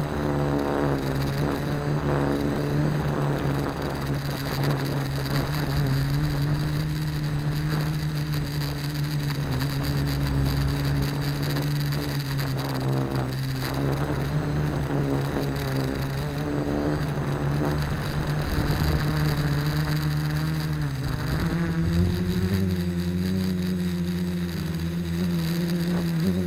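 AeroQuad quadcopter's electric motors and propellers humming in flight, the pitch wavering as the motors correct against the wind, then stepping up about three-quarters of the way through.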